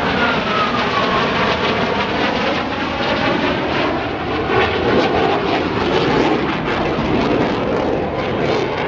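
McDonnell Douglas F/A-18 Hornet's twin jet engines on a high-speed pass. The jet noise is loud and steady, with a whine that falls in pitch in the first second or so.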